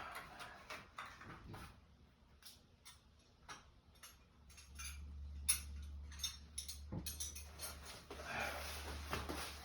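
Scattered light metallic clicks and clinks of hand tools being handled, with a low steady hum coming in about halfway through.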